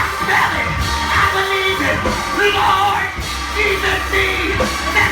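Loud live church praise music over a steady bass, with voices singing and shouting over it.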